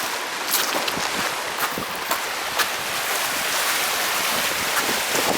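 Steady hiss of small waves washing onto the Gulf of Finland shore, with scattered short clicks.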